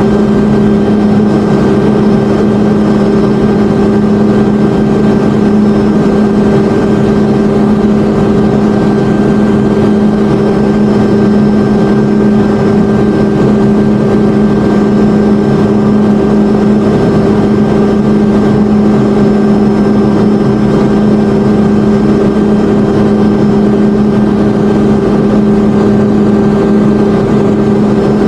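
Helicopter engine, transmission and rotor noise heard inside the cockpit: a loud, steady drone holding one pitch, with a fainter high whine above it.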